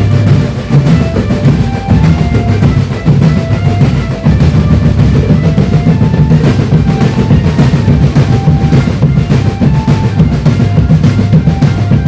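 Indonesian marching drum band playing a dance beat: fast snare and bass drum strokes with a melody of short notes on top.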